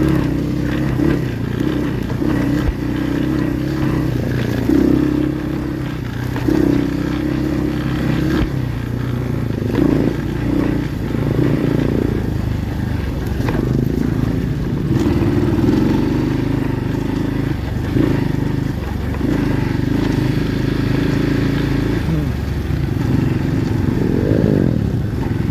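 Kayo pit bike engine running under a rider, revving up and down with the throttle so its pitch keeps rising and falling, with a quick rising rev near the end.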